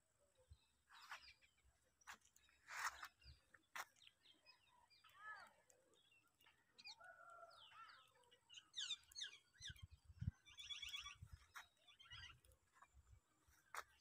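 Faint birds calling: scattered chirps and short whistled calls, with two quick runs of rapidly repeated notes in the second half.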